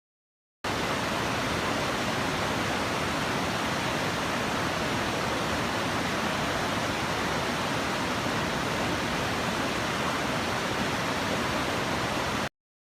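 Steady rushing water, an even hiss like a waterfall or fast stream, that starts abruptly about half a second in and cuts off abruptly just before the end.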